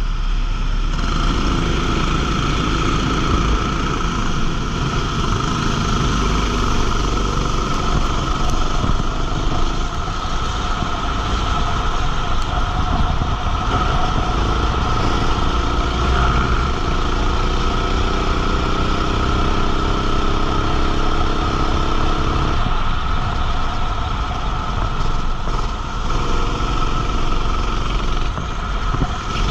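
Go-kart engine running continuously on track. Through the middle an engine note climbs steadily in pitch for several seconds, then drops away suddenly.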